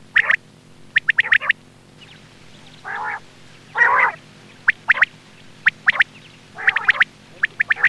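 Quail calling in quick groups of two to four sharp, short notes, with two longer raspy calls about three and four seconds in. This is a hunting lure recording of quail voice, with a steady low hum beneath.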